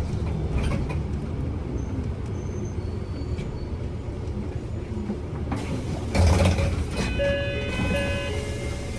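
Kyoto City bus interior: a steady low rumble of engine and road noise. About six seconds in comes a brief rush of hiss, followed by a couple of seconds of steady, clear pitched tones.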